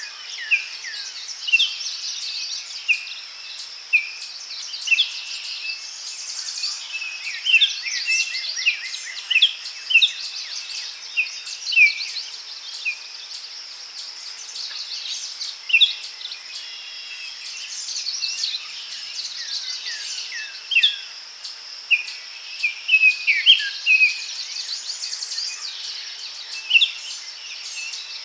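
Daytime forest ambience: many birds chirping with short, quick falling calls over a steady high insect buzz, with a regular faint high ticking.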